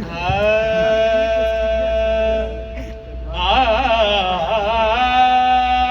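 A singer holds a long wordless note, breaks off, sings a wavering melismatic run about three seconds in, then settles on another held note: the unaccompanied-sounding opening alaap of a qawwali.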